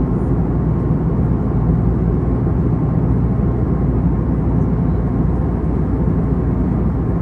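Steady cabin noise of an Airbus A321neo in flight: an even low rumble of the engines and airflow, with a faint steady whine above it.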